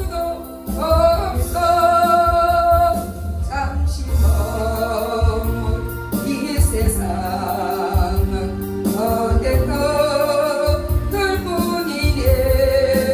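A voice singing a Korean gospel worship song with long held notes, over musical accompaniment with a strong bass.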